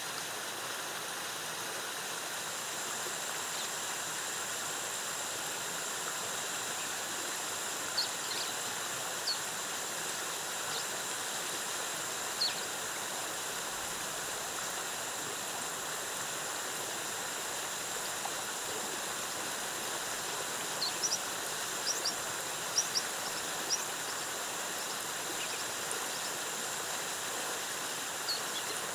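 Steady rush of a rainforest waterfall, with short high bird chirps here and there and a quick run of them about two-thirds of the way through. A thin, steady high tone sits above the water.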